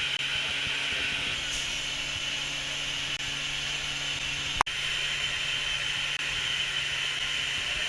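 Steam locomotive 60163 Tornado, a Peppercorn A1 Pacific, standing with a steady hiss of steam and a faint low hum. A single sharp click comes just past halfway.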